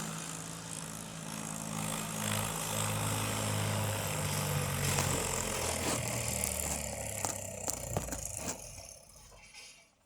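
Tractor engine running steadily, with a few sharp knocks or rattles about seven to eight seconds in; the sound then dies away near the end.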